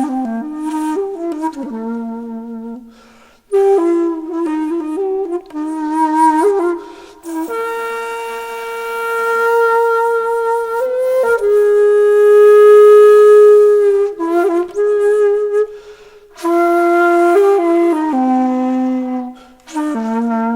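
Background music: a solo wind instrument playing a slow melody in short phrases, with long held notes near the middle.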